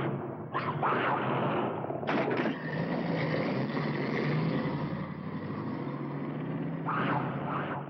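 A car engine running steadily for a few seconds, with short animal snarls about half a second in, two seconds in and near the end.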